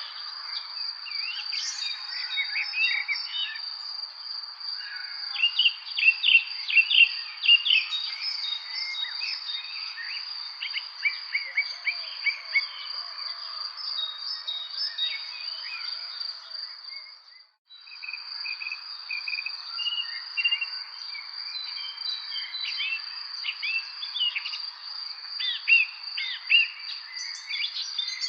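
Many songbirds chirping over a steady, high-pitched insect trill. Everything cuts out for a moment about two thirds of the way through, then resumes.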